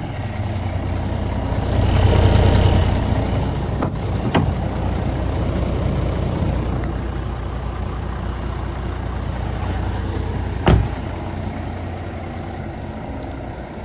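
Scania R450 tractor unit's six-cylinder diesel running steadily, swelling louder about two seconds in. A couple of sharp clicks follow, and there is one loud knock near the end.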